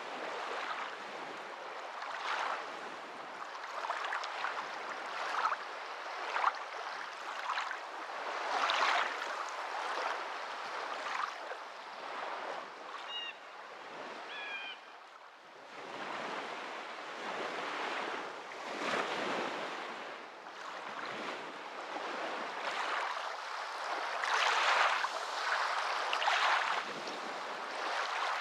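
Water washing and splashing in irregular surges that swell and ebb every second or two, easing briefly about halfway through.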